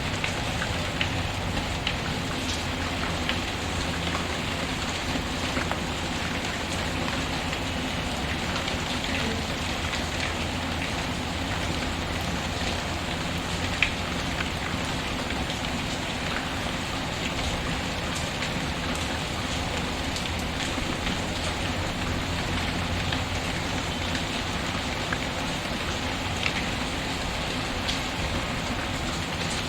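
Steady rain pattering, with scattered sharp pops and crackles from a wood fire in a fireplace, one louder pop about halfway through.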